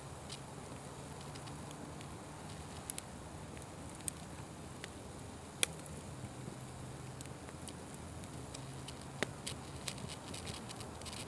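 Open fire crackling: a steady low rush with scattered sharp pops, the loudest about five and a half seconds in.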